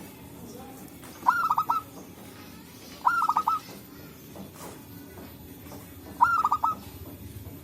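Zebra dove (perkutut) calling: three short phrases of four or five quick cooing notes each, a second or two apart, over a steady low background hum.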